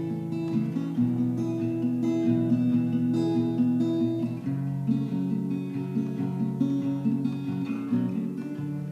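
Acoustic guitar playing a picked chord pattern as an instrumental intro, notes changing about every half second.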